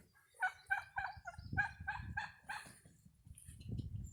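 Domestic turkeys calling: a quick run of about eight short, clipped notes, three or four a second.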